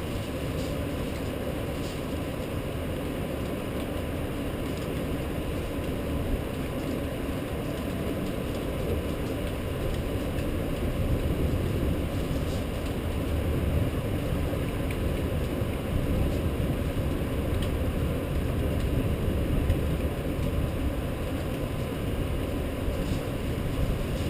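Steady rushing noise of a rainstorm, wind and rain, heaviest in the low range and swelling a little from about halfway.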